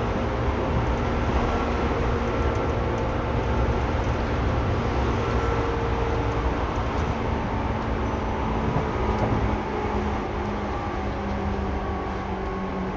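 Running noise inside a Seibu 2000 series electric commuter train: a steady rumble of wheels on rail and traction gear, with a few faint steady tones above it. It eases off slightly in the last few seconds.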